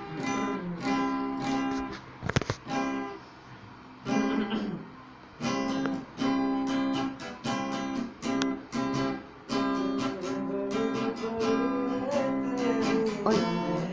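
Acoustic guitar strumming and picking chords in short phrases with brief pauses, an instrumental lead-in to the song.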